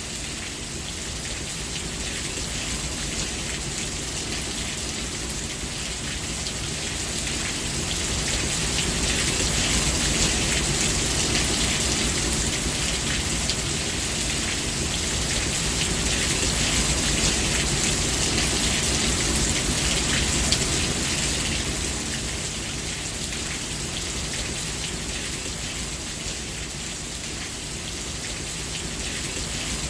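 Steady rain falling, a dense even hiss of drops, swelling louder for a while in the middle before easing back.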